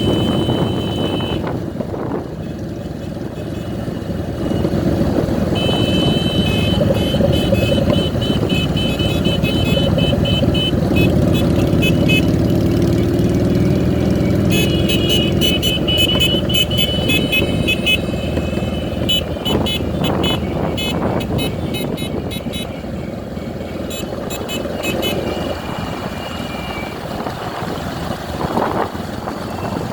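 Motorcycle engines running in a large group ride, with horns beeping in quick repeated strings, first a few seconds in and again through the middle.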